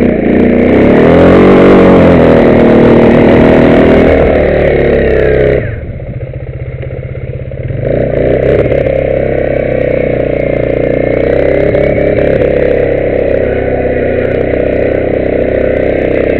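Arctic Cat 500 4x4 ATV's single-cylinder engine running hard under throttle, dropping suddenly to a low idle about five and a half seconds in, then opening up again about two seconds later and running steadily.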